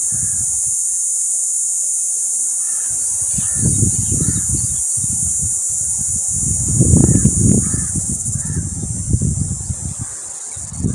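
A bird giving short, harsh, repeated calls, several in a row, over heavy wind buffeting on the microphone that is loudest about seven seconds in, with a steady high-pitched hiss behind it all.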